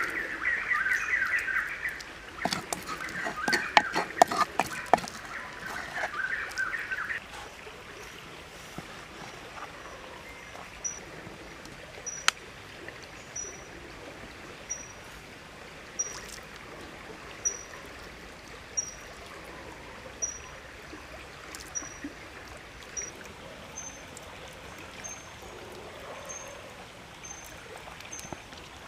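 Outdoor woodland ambience: a loud rapid trilling bird-like call for the first several seconds, then a short high chirp repeating about every second and a half over a faint watery hiss. A few seconds in comes a run of clicks and knocks from a wooden spoon mixing minced filling in a wooden mortar.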